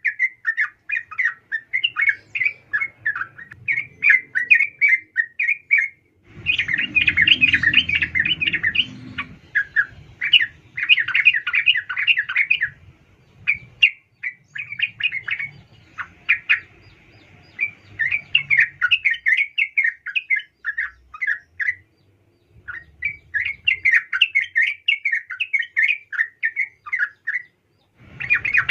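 Yellow-vented bulbul (trucukan), a female calling to males, chattering in long runs of quick, bubbly notes broken by short pauses. This call is used as a lure to rouse male bulbuls to sing.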